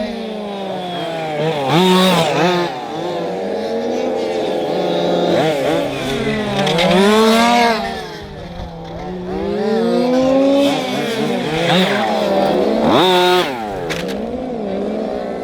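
Several radio-controlled racing models whining around a track together, each motor's pitch rising and falling as it accelerates and brakes, the tones overlapping. A few sharp rising swoops come as models accelerate hard or pass close.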